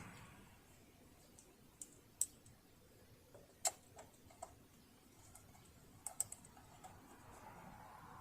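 Light, irregular clicks and taps, a few at a time with short gaps, from hands working on a partly dismantled sewing machine.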